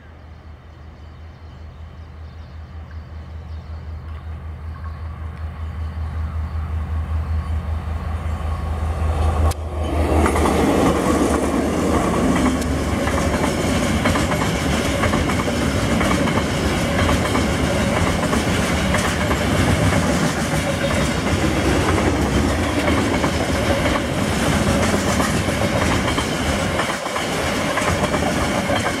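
Two KiwiRail DL-class diesel-electric locomotives approaching, their low engine drone growing steadily louder. About a third of the way in the sound jumps to the loud rolling of container wagons passing close by, with a fast clatter of wheels on the rails.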